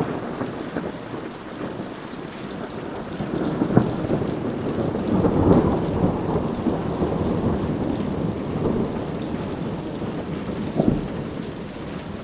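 Steady heavy rain with thunder rolling in: a low rumble builds about three seconds in, peaks around the middle and slowly fades, with a couple of sharp cracks, one about four seconds in and one near the end.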